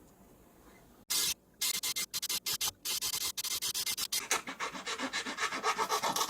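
A cello's wooden body being abraded by hand, in rapid back-and-forth rubbing strokes that start about a second in.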